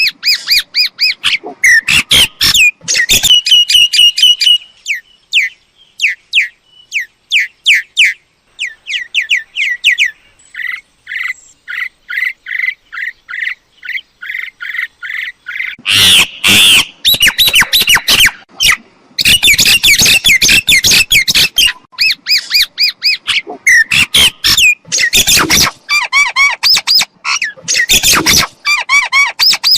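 Myna calling: runs of harsh squawks and quick, chattering notes repeated over and over, softer for a few seconds in the middle, then louder and harsher from about halfway on.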